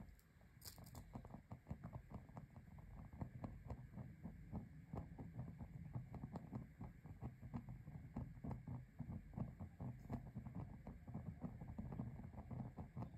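Fire crackling in a small fireplace, with rapid, irregular pops and snaps.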